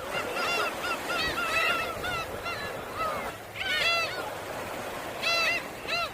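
A flock of gulls calling, many short arched cries overlapping one another.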